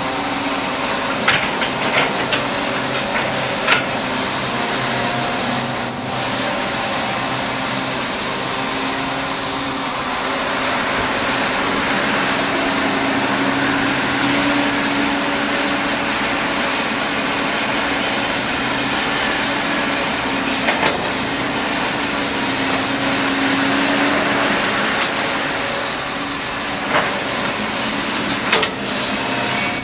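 Heavy diesel construction machinery running steadily at work, with a few sharp knocks in the first few seconds and again near the end.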